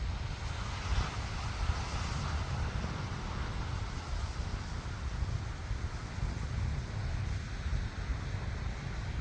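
Wind buffeting the microphone as a low, unsteady rumble over a steady rush of ocean surf, swelling a little about a second or two in.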